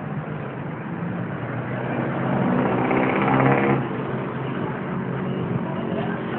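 Road traffic: a steady engine drone, with one motor vehicle growing louder as it passes close about halfway through, then dropping away sharply.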